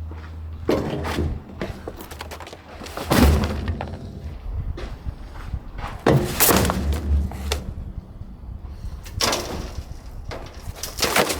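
Rubble from a demolished wall being cleared: a series of sudden crashes and clatters of broken debris, about half a dozen, a second or two apart.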